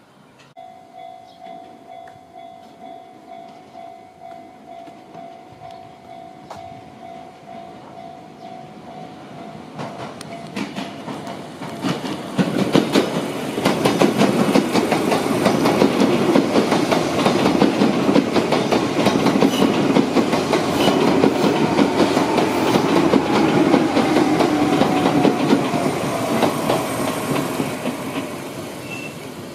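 Izukyu 2100 series 'Resort 21' electric train passing close by: a loud rumble with wheels clattering over rail joints, building from about ten seconds in and easing off near the end, with a motor whine that slowly falls in pitch in the latter half. Before it arrives, a steady pulsing two-note electronic tone sounds for about the first ten seconds.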